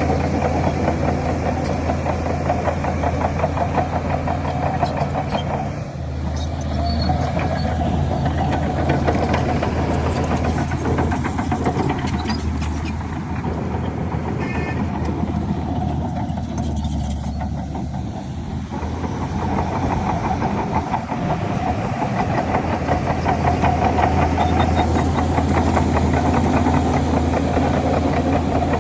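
Diesel engine of a Shantui DH17 C3 bulldozer running steadily under working load. Its pitch and level shift about six seconds in, it eases off for a while past the middle, then picks up again.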